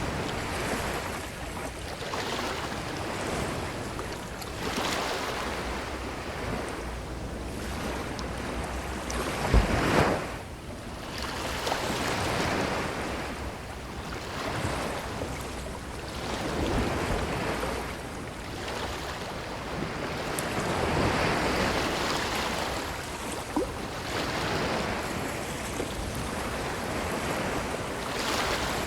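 Ocean waves washing onto a beach, the surf swelling and falling every few seconds. There is a brief sharp, louder burst with a low thump about ten seconds in.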